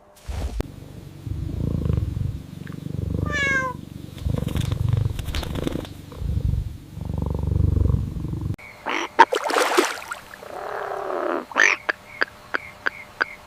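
A cat purring in low rumbling swells, with a brief falling whistle about three seconds in. After about eight seconds it changes to other effects: a short noisy burst, a falling meow-like call, then a quick regular clicking about twice a second.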